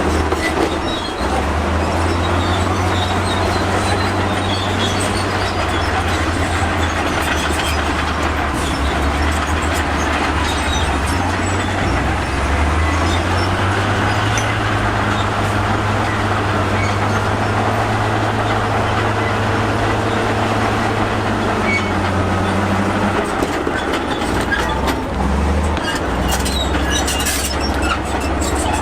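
Crawler bulldozer working: its diesel engine running under load with the steel tracks clanking and squealing. The engine note rises about twelve seconds in and drops back near twenty-three seconds.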